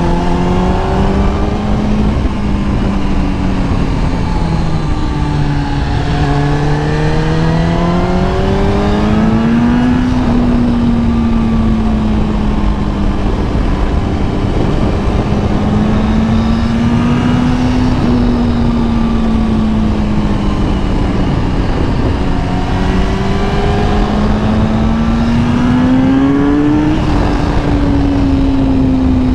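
Kawasaki ZX-10R inline-four sport-bike engine running under way, its pitch rising and falling several times with the throttle, with a drop and climb again about five seconds in. A steady rush of wind noise runs underneath.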